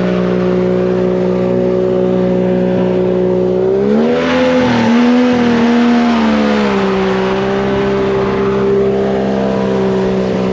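A vehicle engine running steadily. About four seconds in its pitch rises, as with more throttle, and it settles back down about three seconds later.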